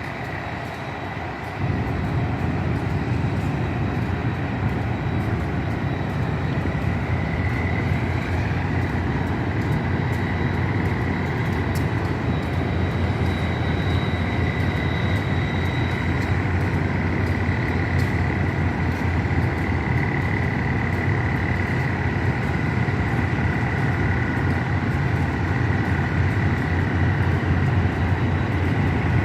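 Train pulling out of the station: a steady low rumble that gets louder about two seconds in and holds, with a thin steady high tone running over it.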